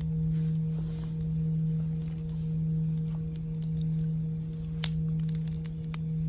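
Singing bowl ringing a low, steady sustained tone that swells and fades about once a second. Over it, a campfire crackles in scattered sharp pops, with one louder pop near the five-second mark.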